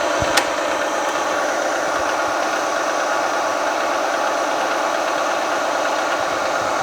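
Milling machine spindle running steadily as a drill bit bores into a flame-hardened steel crankshaft, with a single sharp click about half a second in.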